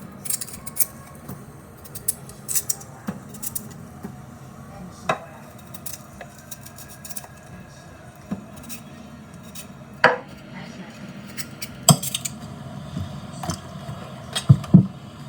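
Kitchen utensils clinking and knocking against pots and dishes in an irregular clatter, with a few sharper metallic clinks that ring briefly.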